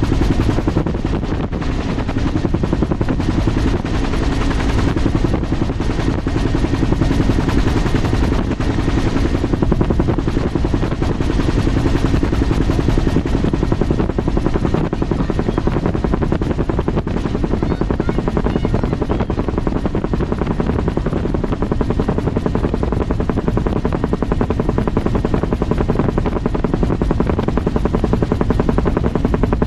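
Aircraft running steadily close by, with a rapid, even pulsing beat that holds throughout.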